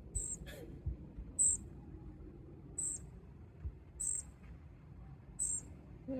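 High, thin squeaky call repeated five times at a steady pace, about every second and a quarter, typical of a small bird calling.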